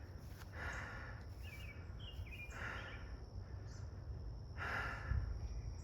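A man breathing hard, three heavy breaths about two seconds apart: out of breath after climbing a steep hill. A bird chirps briefly between the first two breaths.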